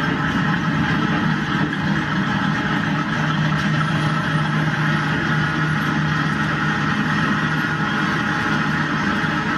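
A train running: a steady mechanical drone with a constant low hum.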